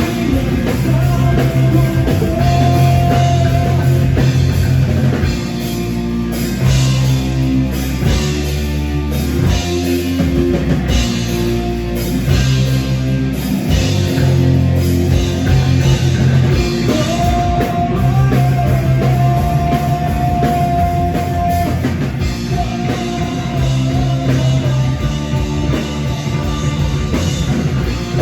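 Rock band playing live, an instrumental passage with drums, bass and guitar.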